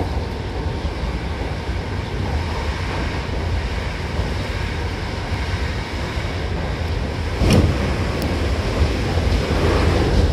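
Hankyu Kobe Line train running at speed, heard from inside the car by the doors: a steady low rumble of wheels on rail. A single sharp knock comes about seven and a half seconds in.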